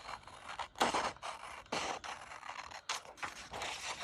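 Paper and craft supplies being handled on a desktop: a string of irregular rustling, scraping strokes, the loudest about a second in.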